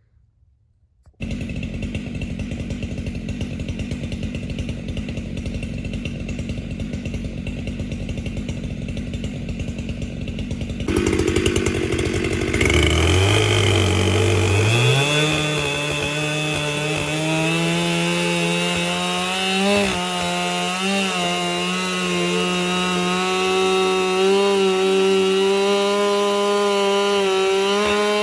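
Husqvarna 592XP chainsaw on an Alaskan chainsaw mill: it comes in about a second in running at a fast idle, gets louder about eleven seconds in, then is throttled up with its pitch rising over a couple of seconds and holds at high revs.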